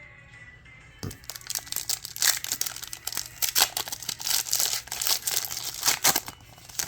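Foil Pokémon booster pack wrapper crinkling and tearing as it is opened, a dense crackle of quick sharp rustles starting about a second in.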